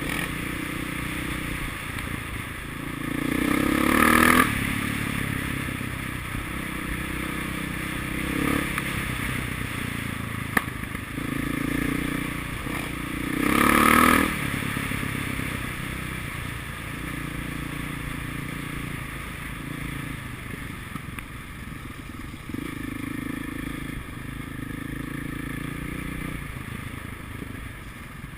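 Motocross motorcycle engines running, with two loud swells, about four seconds in and again around fourteen seconds, each building up and then cutting off sharply.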